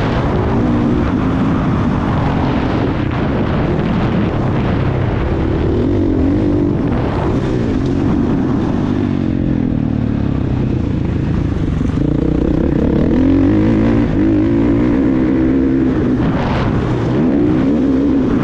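Motocross bike engine revving on the track, its pitch rising and falling over and over as the throttle is opened and closed.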